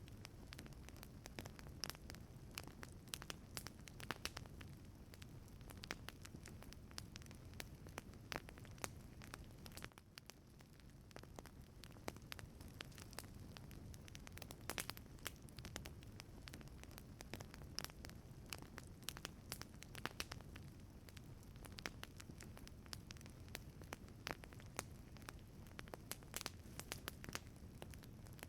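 Wood fire burning in a wood-fired pizza oven, crackling with frequent irregular sharp pops over a low steady rumble.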